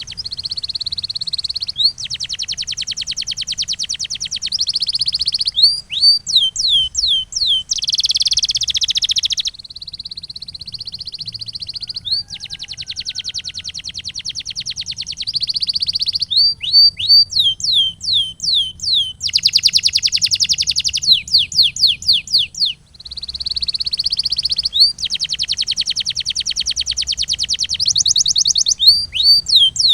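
Male domestic canary singing a long song. Fast rolled trills lasting a few seconds each alternate with held warbling notes and runs of quick, sharply falling whistled notes, several a second.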